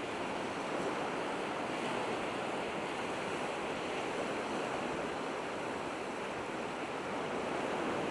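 Steady wash of waves and surf along the shore, with some wind.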